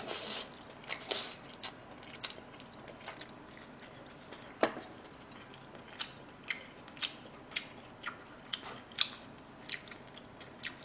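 A person chewing a mouthful of fried rice made with leftover yangnyeom (sauced fried) chicken: irregular short clicks from the mouth, about one or two a second.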